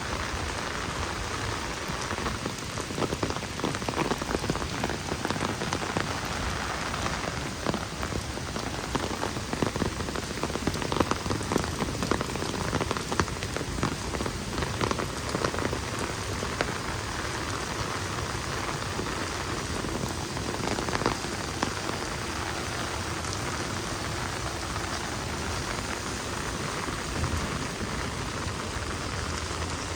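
Heavy rain falling steadily, with a dense patter of separate drops that is busiest in the first half.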